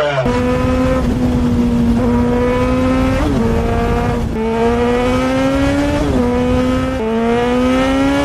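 Motorcycle engine pulling hard under acceleration, its pitch climbing steadily and dropping sharply at each upshift, several gear changes in a row.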